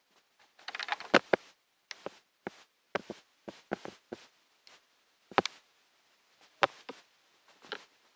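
Irregular sharp clicks and knocks, about a dozen, with a short rustling scrape about a second in.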